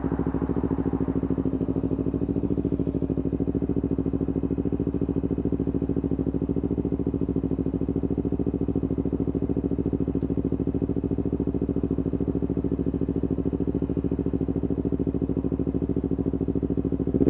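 A vehicle engine idling steadily with an even pulse, its speed unchanged throughout.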